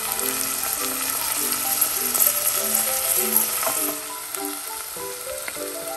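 Chopped tomato, onion, garlic and ginger sizzling in hot oil in a stainless steel pot, stirred with a wooden spoon that knocks lightly against the pot now and then. The sizzle eases about two-thirds in. Light background music plays underneath.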